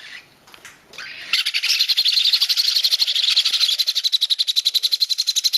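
Baby parrot chicks begging for food: a fast, even, buzzing chatter of rapid calls, about a dozen a second, that starts abruptly a little over a second in and keeps going, with faint clicks before it.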